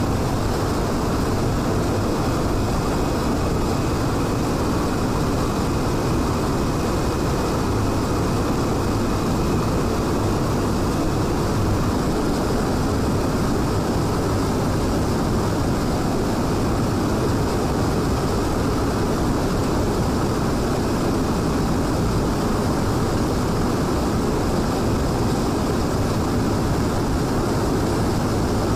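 Aircraft engine noise, a steady even drone that neither rises nor falls.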